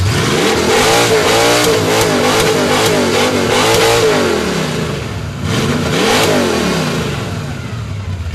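A 1955 Chevy's engine, run through open exhaust headers, is revved hard from idle and held high for about four seconds. It drops, then gets a second shorter rev about six seconds in before settling back toward idle. It is very loud, read at 114 decibels.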